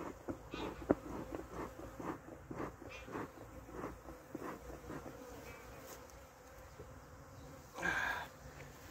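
Honeybees buzzing around the microphone, with many bees flying close past in quick succession over the first few seconds, each a short rising-and-falling buzz, above a faint steady hum of the colony. A brief rustle comes near the end.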